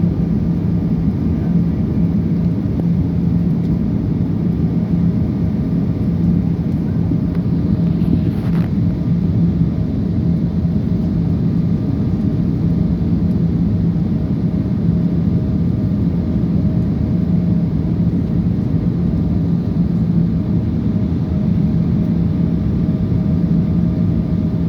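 Steady low drone of an airliner's engines and airflow heard inside the passenger cabin, with a constant hum and no change in pitch.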